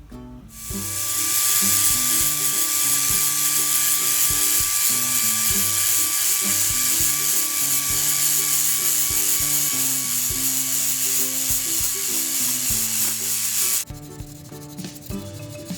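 A power tool working on the rusty metal gate: a steady high hiss with a faint whine. It starts about half a second in and cuts off suddenly shortly before the end. Background music with plucked strings plays throughout.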